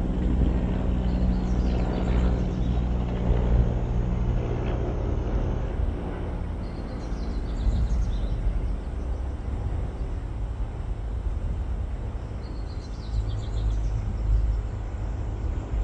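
Steady low outdoor rumble with faint high bird chirps three times, about 2 s in, around 7 s and around 13 s.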